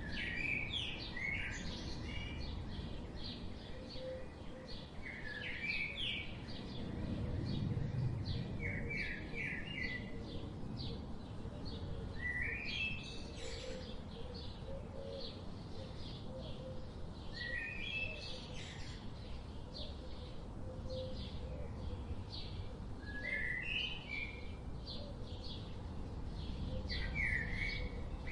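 Birds singing and chirping: a short phrase of quickly rising notes repeats every few seconds over a stream of brief high chirps, with a steady low rumble in the background.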